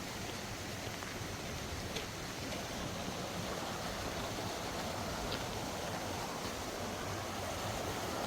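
Mountain valley stream rushing steadily over rocks, with a few faint ticks.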